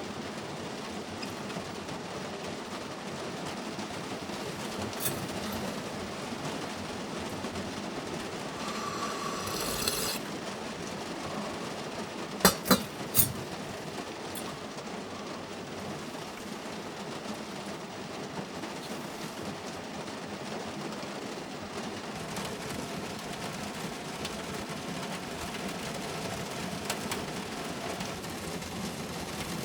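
Steady rain falling on a car's roof and body. Three sharp knocks come in quick succession about twelve seconds in.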